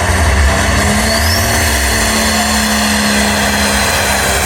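Pulling tractor's engine running hard at full load, steady and loud, as it drags the weight-transfer sled down the track.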